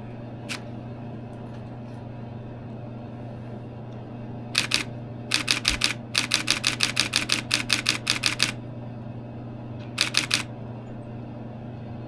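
Nikon D7000 DSLR shutter firing in continuous-shooting bursts: a quick three frames, then a run of about three seconds at roughly six frames a second, then three more near the end. A steady low hum sits underneath.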